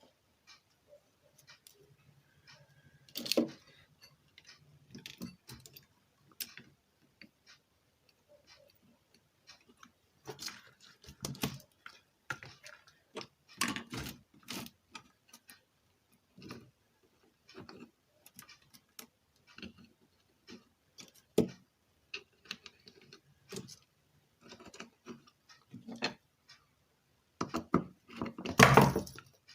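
Scattered clicks, taps and knocks of small metal tools and parts being handled on a workbench during amplifier board repair, such as fitting the power transistors to the heatsink. The loudest bout of knocks comes near the end.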